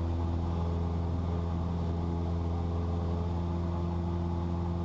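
Cessna 172's piston engine and propeller droning steadily inside the cabin in flight: a constant low drone with several steady higher tones above it.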